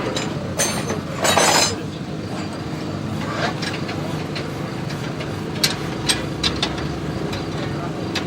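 Steady low mechanical hum with sharp metallic clinks: a loud rushing burst about a second and a half in, and a quick run of four or five clinks a little past halfway.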